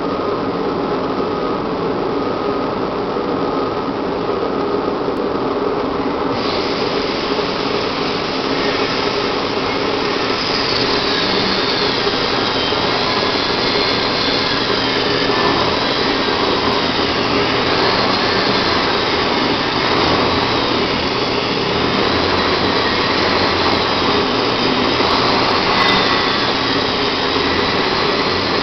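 Custom-built horizontal concrete saw running continuously as it cuts a concrete barrier wall. About six seconds in the sound turns brighter, and from about ten seconds a high whine wavers up and down over the steady engine noise.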